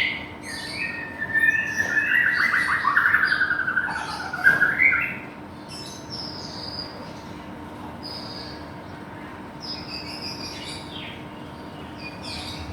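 White-rumped shama singing: a loud, varied run of phrases with a fast rattling trill in the first few seconds, then softer, high short whistles and chirps. A faint steady hum lies under the song.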